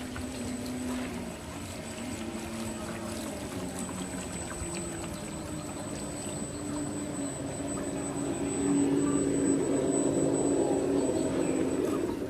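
Lobster boat's engine running steadily with water rushing along the hull; it gets louder about eight and a half seconds in and drops back just before the end.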